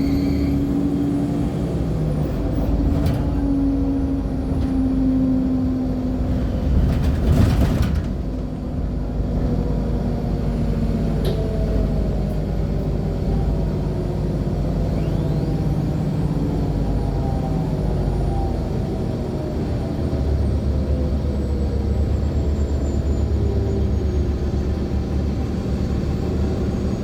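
Inside a 2014 NOVA LFSA hybrid articulated bus with a Cummins ISL9 diesel and Allison H50 EP hybrid drive: engine and driveline tones falling in pitch as the bus slows, with a short hiss about seven seconds in. A thin high whine glides down, and from about twenty seconds in the engine settles into a steady low pulsing.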